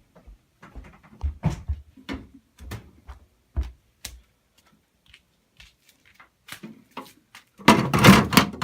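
Scattered footsteps and light knocks from handling an emptied plastic dehumidifier bucket, a quiet spell, then a louder rustling clatter near the end.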